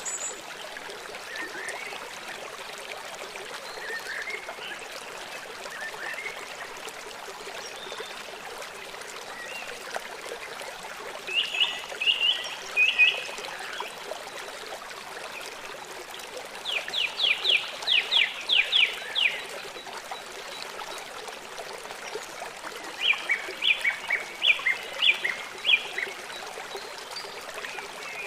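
Small songbirds singing over a steady rush of running stream water. A few faint chirps come early, then three bouts of rapid, evenly repeated high notes: one about halfway through, one a little later, and one near the end.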